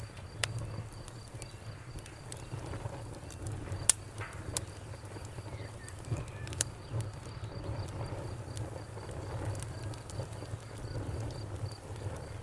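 Wood fire crackling with scattered sharp pops, over a low rumble, while a cricket chirps steadily in quick pulses, about four a second.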